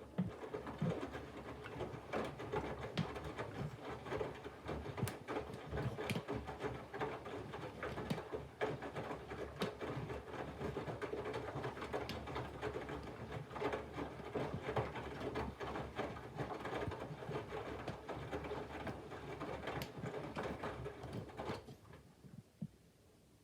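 Candy front-loading washing machine in its main wash, the motor turning the drum so the wet laundry and water slosh and patter inside over a steady motor hum. The drum starts at the beginning and stops near the end.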